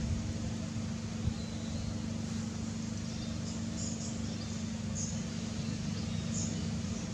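A steady low motor hum, like an engine running, with a few short, faint high chirps over it.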